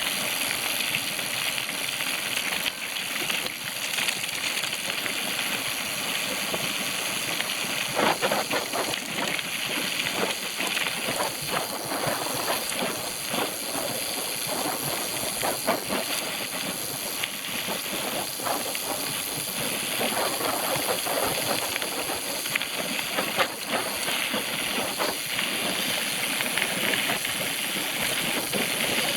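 Mountain bike being ridden over a dirt trail: a steady hiss of tyres and wind, broken by frequent clicks and rattles from the bike.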